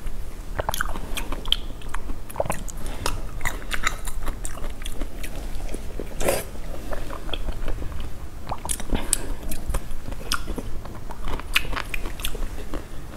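Close-miked biting and chewing of glazed pork belly: many short mouth clicks and smacks throughout, with a louder bite about six seconds in.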